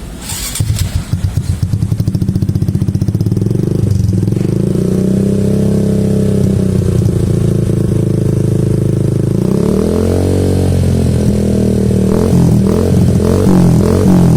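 Motorcycle engine running through an aftermarket CNC racing exhaust with a deep, bassy tone. It ticks over with a pulsing beat, is revved up and held, then is blipped repeatedly near the end.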